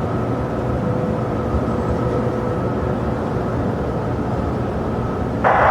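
Steady low rumble of jet aircraft engines across the airfield. Near the end, an air traffic control radio channel opens with a sudden hiss.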